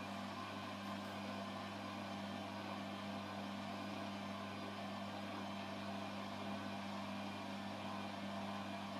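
Washing machine running with a steady, even hum.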